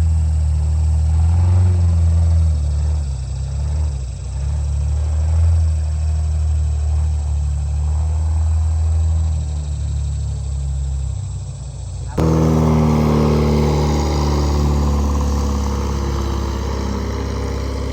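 Boat's outboard motor running steadily. About twelve seconds in, the sound cuts abruptly to a louder, fuller engine note.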